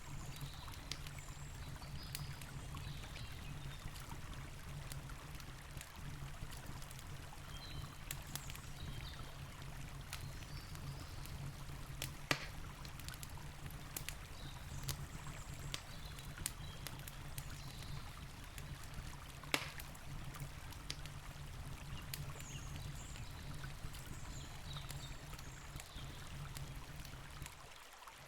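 Campfire crackling, scattered small clicks with a few sharp pops (the loudest about 12 and 19 seconds in), over the steady rush of a river.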